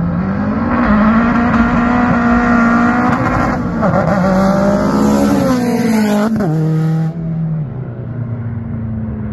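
A car engine at high revs, accelerating past. Its note climbs and holds high, then slides down and drops sharply about six and a half seconds in, and fades.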